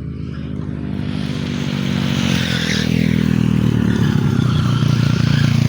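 A heavy vehicle's engine and tyre noise growing steadily louder as it approaches and draws close.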